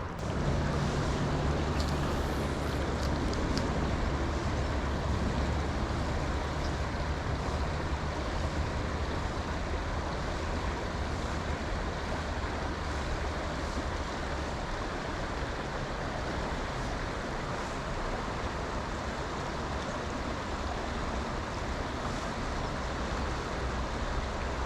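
Creek water rushing steadily in a strong current, with a low rumble that is louder through roughly the first half.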